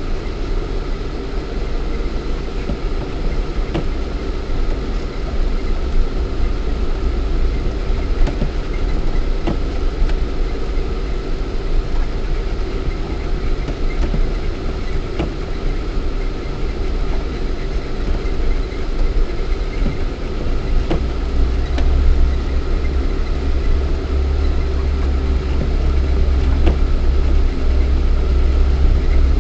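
Lada Niva 1.7i's four-cylinder petrol engine running steadily, heard from inside the cabin while driving off-road, with scattered light knocks and rattles. A low rumble grows stronger about two-thirds of the way through.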